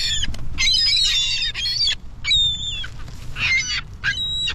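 A flock of birds calling over one another. A dense tangle of high, wavering calls runs from about half a second to two seconds in, followed by a few single calls.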